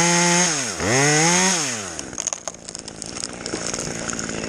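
Two-stroke chainsaw at full throttle, its pitch dropping sharply and climbing back about a second in, then falling away to a lower, quieter run about two seconds in.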